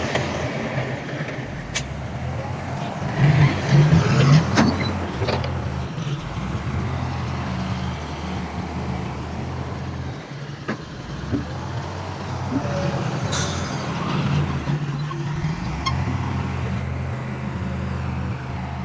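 Heavy diesel engines of earthmoving machinery (bulldozer and dump trucks) running steadily, louder for a moment about three to four seconds in, with a few sharp clanks.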